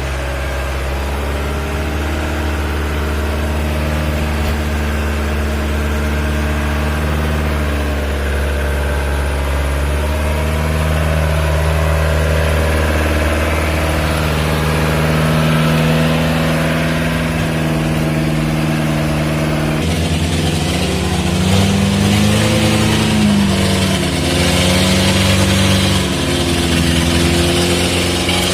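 4x4 truck engine running under load, its pitch holding mostly steady and then rising and falling as the revs change about twenty seconds in.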